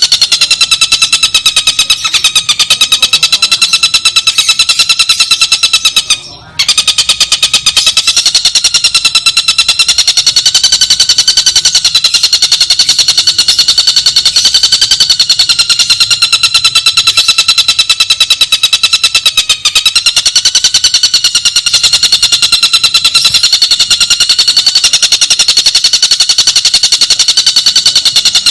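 Tengkek buto (stork-billed kingfisher) call in a very fast, tight continuous trill, each note clear and ringing, with one short break about six seconds in.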